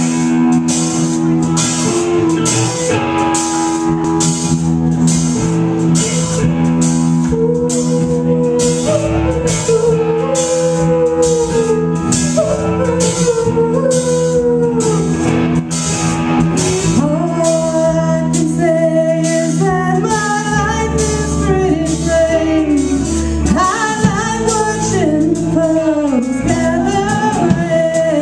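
A rock band playing a song: guitars and bass holding steady chords over drums with a regular beat. A wavering melody line comes in about seven seconds in and grows busier toward the end.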